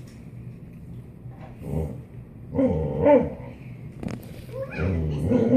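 Boxer dog 'talking': a few drawn-out, wavering moaning calls that bend up and down in pitch, the typical grumbling talk of the breed.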